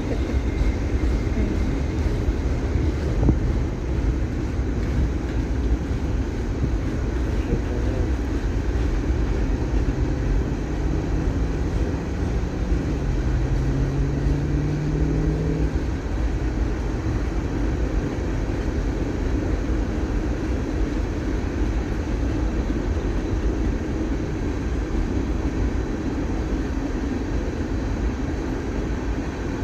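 Steady low rumble of a passing freight train. Partway through, a droning tone rises slightly, then drops to a lower pitch and fades.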